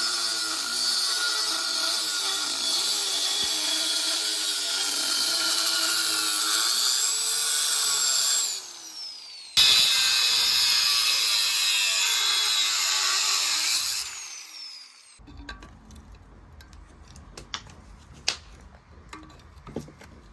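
Electric power tool running under load, its motor pitch wavering, with a dense high hiss. It cuts out about eight seconds in and comes back abruptly a second later, then dies away about fourteen seconds in. Scattered light clicks and taps follow.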